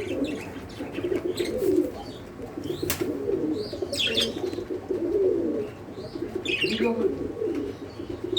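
Several pigeons cooing in overlapping low, warbling calls, with a few short high chirps from other small birds.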